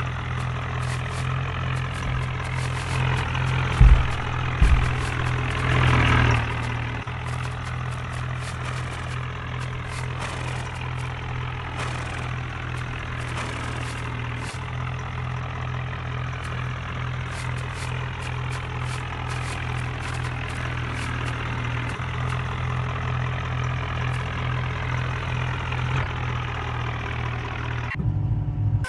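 HMT tractor's diesel engine idling with a steady low hum. Two heavy thumps come about four seconds in.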